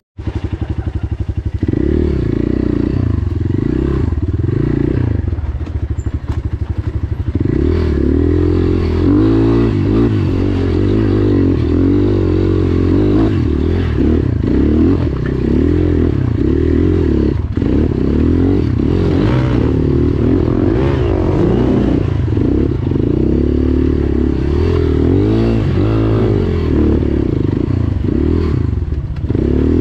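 GPX FSE250E dual-sport motorcycle's single-cylinder four-stroke engine while riding trail, revs rising and falling constantly with the throttle. It is lower for the first several seconds and then busier. Clattering and scraping of the bike over the ground run alongside.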